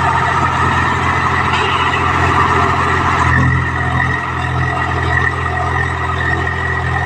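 Tractor diesel engine running steadily, its low note growing stronger about three seconds in.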